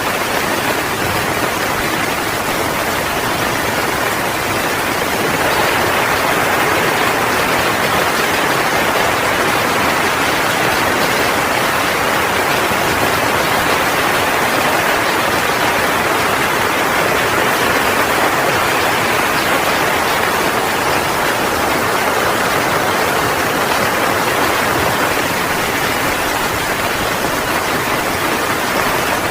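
Heavy rain falling as a steady, dense hiss that swells slightly about five seconds in.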